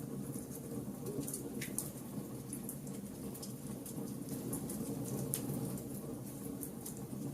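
Wood fire burning: a steady low rush of flame with frequent irregular sharp crackles and pops from the burning wood.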